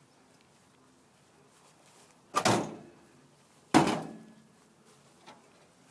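Two loud bangs about a second and a half apart, each ringing out briefly, with the home-made locomotive's engine shut off.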